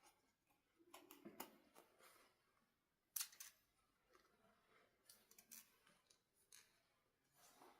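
Faint handling noises: scattered soft clicks and rustles of small objects being handled, with one sharper click about three seconds in.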